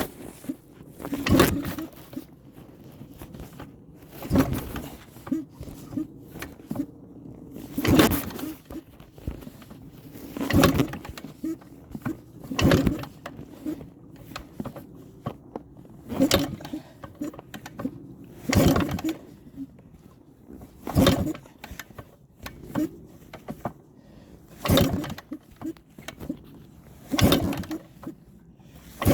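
Repeated kick-starting of a 1978 Yamaha IT250's two-stroke single, about one kick every two to three seconds, the engine turning over without firing: a cold start with the choke on after the bike has sat unused for over two months.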